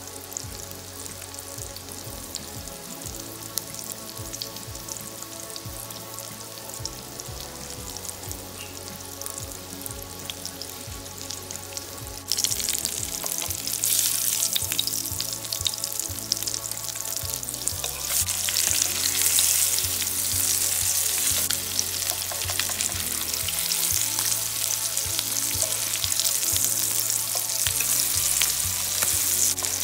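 Salmon croquettes frying in a pan: a steady sizzle with crackle that turns louder about twelve seconds in and again about eighteen seconds in. Soft background music plays underneath.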